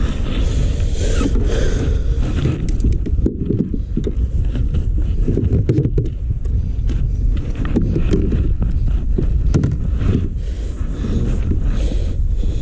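Kayak under way on the water, a steady low rumble of wind and water on the microphone with scattered light knocks.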